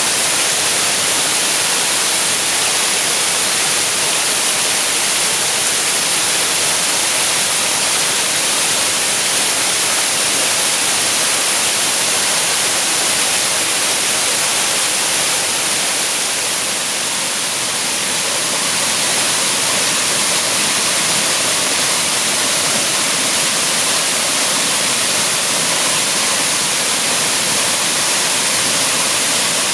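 Waterfall: a steady, unbroken rush of falling water, dipping slightly for a moment about halfway through.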